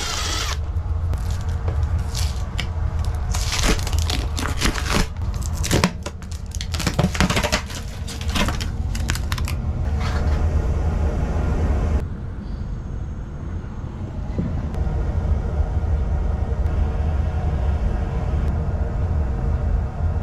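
Scratchy rustling and scraping, like lint and debris being pulled and scraped out of a dryer vent, in quick irregular strokes for about the first ten seconds, then dying away, over a steady low rumble.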